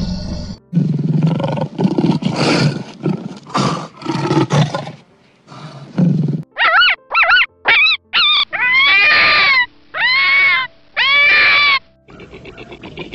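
Wild animal calls: a run of harsh, rasping roars, then after a short pause a series of high calls that rise and fall, four short ones followed by three longer ones.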